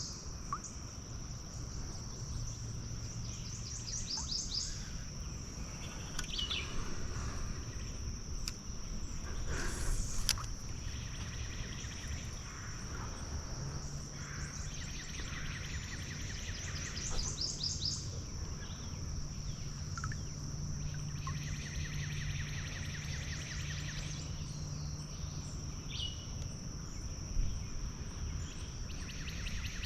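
Outdoor wetland ambience: a continuous high, steady insect drone, with birds trilling and chirping at intervals over a low rumbling background.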